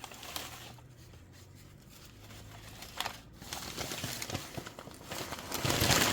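Packaging being handled and unwrapped from a shipped orchid, with crinkling and rustling that starts as scattered crackles and grows louder and denser near the end.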